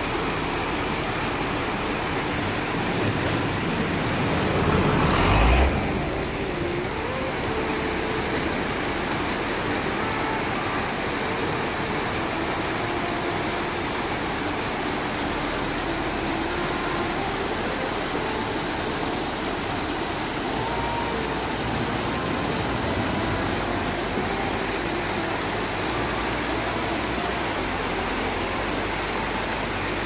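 Steady rush of fast water flowing down a concrete channel, with a brief louder whoosh about five seconds in.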